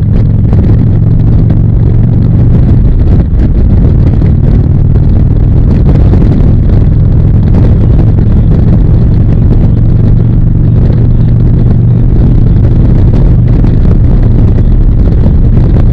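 Harley-Davidson V-twin engine running steadily while riding at a constant speed, over a low rumble.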